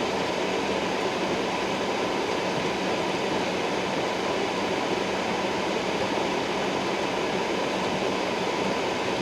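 Steady, even rushing noise inside a car waiting in freezing rain.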